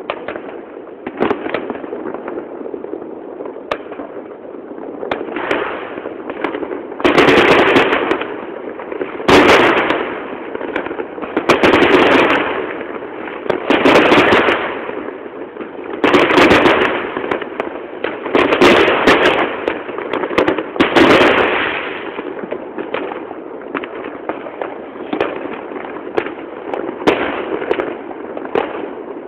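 Many fireworks going off at once: a constant din of pops, crackles and distant bangs. A run of loud nearby bursts about every two seconds stands out through the middle, then it settles back to the steady crackle near the end.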